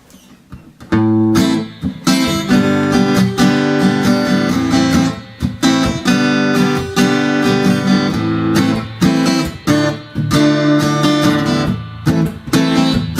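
Seagull Coastline S6 Burst acoustic-electric guitar strummed in full chords, played through its QI pickup and a Fender KXR 60 amp. It starts softly, and the strumming comes in strongly about a second in and keeps a steady rhythm.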